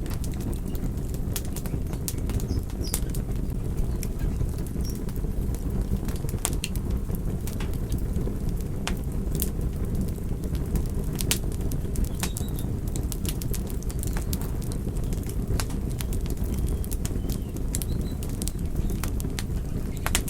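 Wood fire burning: a steady low rush of flames with frequent, irregular sharp crackles and pops from the burning wood.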